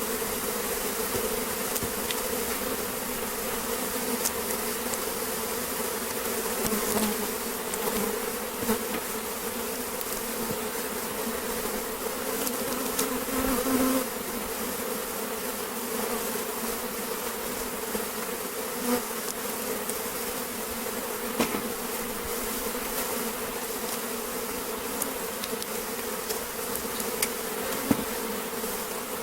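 Steady buzzing of a large mass of honeybees from an opened, very strong hive, with a few faint clicks and knocks of the hive boxes being handled.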